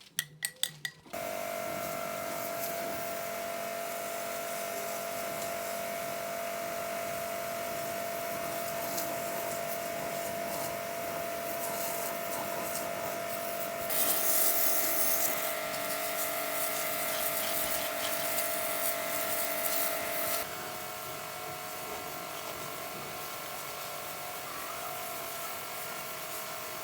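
A few sharp clicks, then a small electric power tool running steadily with a steady whine. About halfway through it turns louder and harsher for some six seconds, then drops back to its steady running.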